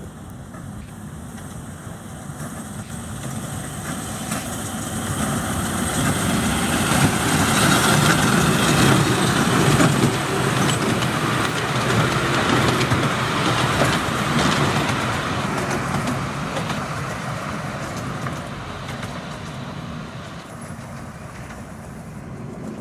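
Miniature railway train passing, its wheels clicking and clacking over the rail joints with a rumble that grows louder, peaks about halfway through, then fades as it goes away.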